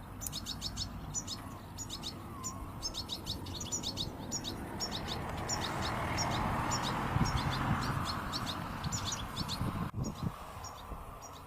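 Tibetan goldfinch chicks chirping: thin, high, quick notes in clusters of two to four, repeated throughout. Underneath is a rushing background noise that swells in the middle.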